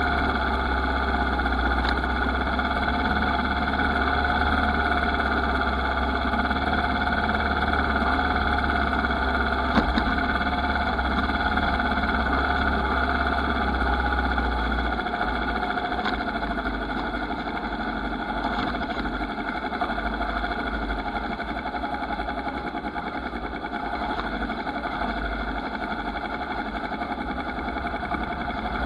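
Motorcycle engine running at a steady speed. A deep low rumble under it drops away about halfway through.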